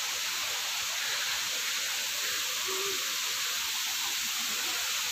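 Steady rushing of a waterfall: an even hiss of falling water that holds level throughout.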